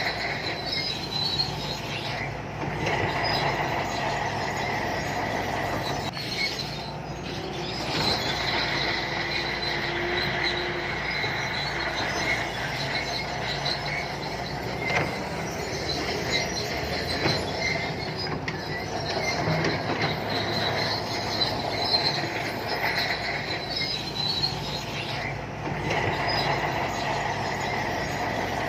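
SANTUI crawler bulldozer working, its diesel engine running under a steady high squeal from the steel tracks.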